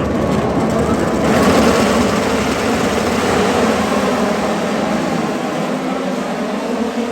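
Race motorcycles passing at speed on the circuit: a loud rush of engine noise that swells about a second in, with an engine tone falling away near the end.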